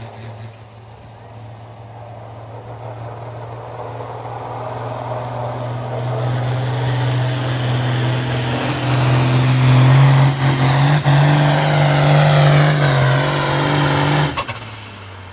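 Pulling tractor's engine running at full throttle under load down the track, growing steadily louder, then cut off abruptly near the end as the pull finishes.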